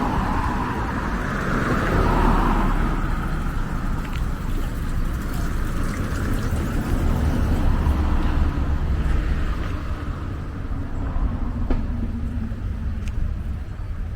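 Street traffic: cars passing with a steady low rumble and tyre noise, loudest in the first few seconds, then easing off.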